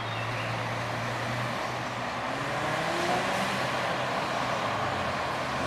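A passing vehicle, heard as a steady low hum over a constant noise background, with its pitch rising about two seconds in.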